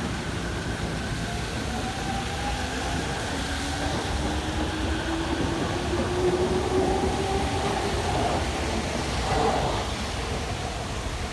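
An electric train passing, its motor whine slowly rising in pitch as it goes by, over a steady hiss of rain.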